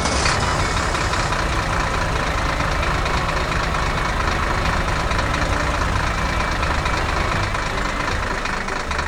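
Heavy construction-machine engine running steadily: a low rumble under an even rushing noise, with no change in pitch.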